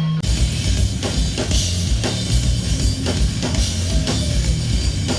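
Live hardcore punk band playing loud, with pounding drums, distorted guitar and bass and crashing cymbals; it kicks in abruptly about a quarter second in.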